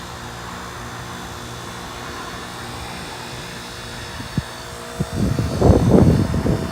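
2001 Amana Temp-Assure 3-ton heat pump's outdoor unit running steadily in defrost mode, its compressor humming. About five seconds in, loud low buffeting, the kind wind makes on the microphone, comes and goes over the hum.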